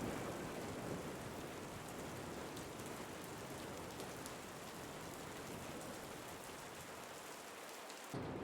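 Steady rain falling, an even hiss with faint patter of drops. About eight seconds in the sound changes abruptly to a deeper rushing, like wind.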